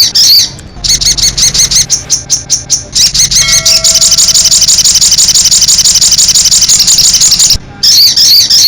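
Sogon (little spiderhunter) giving its rapid 'nembak' call: a fast run of high, shrill chirps, many per second, broken by short pauses near the start and near the end.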